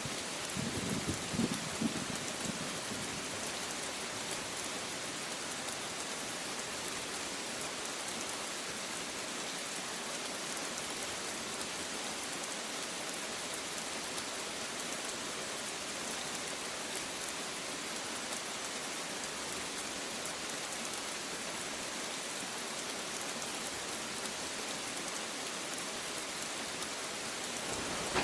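Steady rain falling, an even hiss of many drops. A short, low rumble of thunder comes in the first couple of seconds.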